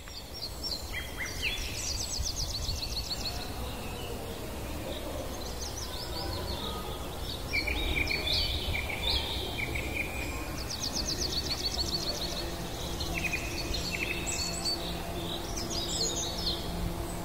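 Songbirds singing and calling, with rapid high trills and short chirps and whistles one after another, over a steady low rumble. A faint steady low hum joins about twelve seconds in.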